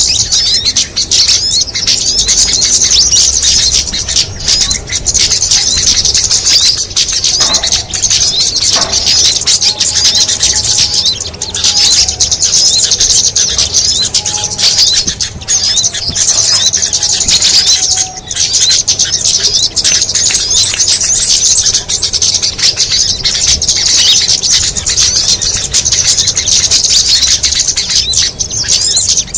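Dense, continuous high-pitched chattering and squeaking of many small birds at once: a mixed lure-call track used to draw small birds in. A few faint, lower whistled notes come through in the middle.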